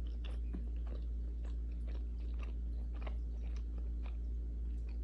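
A person chewing food with the mouth close to the microphone: soft, irregular small clicks and crunches, over a steady low hum.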